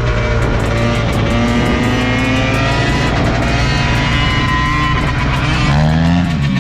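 Dirt bike engine revving up and down over background music with guitar; near the end one rev rises and falls in pitch.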